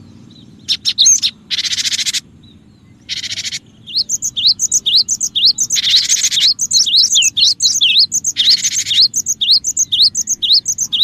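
Cinereous tit (gelatik batu) calling in a bird-lure recording: harsh buzzy churring calls about half a second long, repeated every second or two. From about four seconds in, a quick run of sharp slurred whistled notes joins them, about three to four a second. A faint low hum runs underneath.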